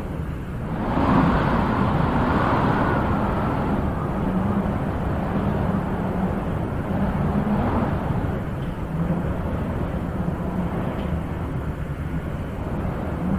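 Wind blowing in a steady rush, with a stronger gust swelling about a second in and easing off.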